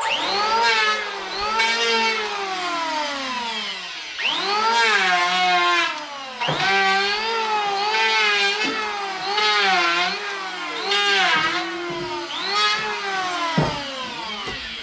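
A power tool's motor, rising in pitch and then sagging, over and over, about eight times.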